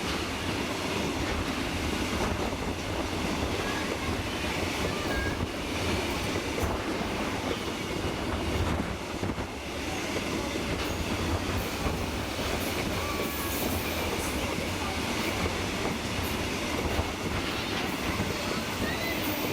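A steam-hauled train's passenger carriage rolling along the track: a steady rumble of wheels running on the rails.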